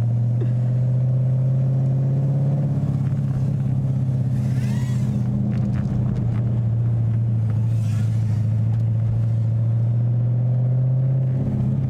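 Dodge Charger Daytona 392's 6.4-litre HEMI V8 running at a low, steady engine speed as the car rolls slowly around a lot, heard from inside the cabin with the windows down.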